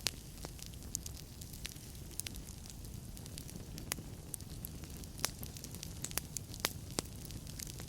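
Wood fire burning in a fireplace: a steady low rumble with irregular sharp crackles and pops from the burning logs, a few louder snaps scattered through.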